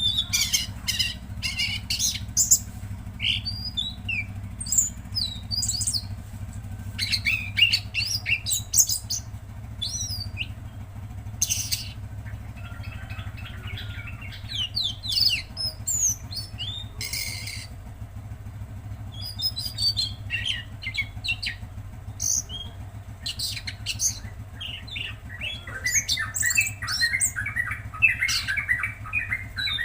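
Tledekan laut songbird calling: fast, high chirps and squawky twittering in irregular bursts, with a denser run of quick notes near the end. A steady low hum runs underneath.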